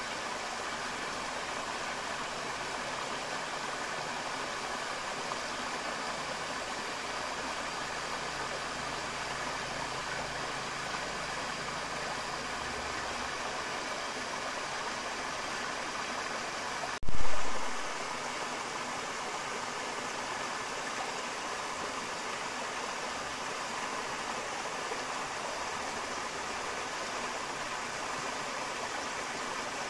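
Forest river flowing, a steady even rush of water. About halfway through, a single sudden low thump stands out well above the water and fades within a second.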